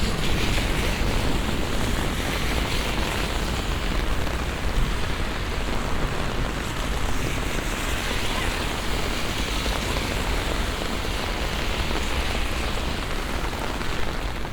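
Heavy rain falling steadily on a city street, as a continuous hiss over a low rumble.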